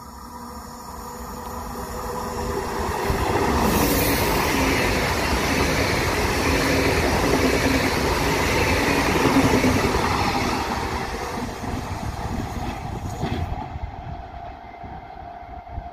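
A PKP Intercity ED250 Pendolino high-speed electric train passing through the station at speed. A rush of wheels on rail and air swells as it nears, stays loud for several seconds as the carriages go by, then fades. Near the end the sound cuts abruptly to the quieter sound of another Pendolino approaching.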